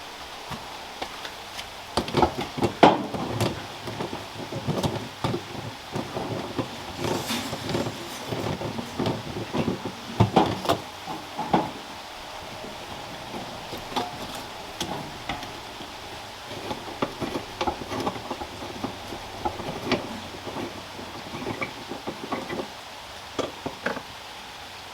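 Steady rain falling, with a long run of irregular knocks and clatters of things being handled, loudest about two seconds in and again near the middle, dying away near the end.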